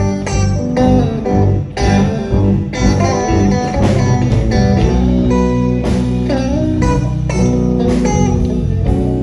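Live blues band playing an instrumental passage of a slow song: an electric guitar lead with bending notes over bass and drums.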